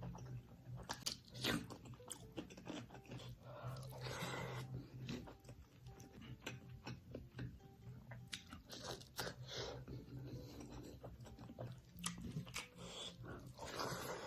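Close-miked crunchy bites and chewing of food, a rapid, irregular series of sharp crackles and crunches.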